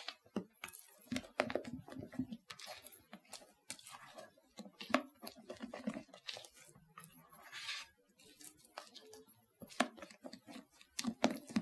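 A mixing utensil working meringue roughly into cake batter in a bowl: irregular clicks and taps against the bowl with soft, wet scraping swishes.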